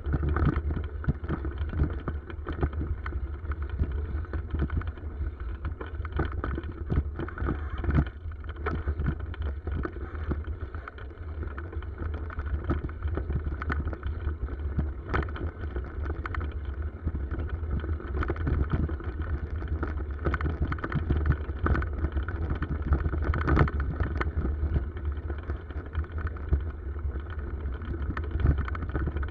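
Bicycle ride on a forest track: wind buffeting the microphone in a steady low rumble, with tyre noise and frequent rattling knocks from the bike over rough ground.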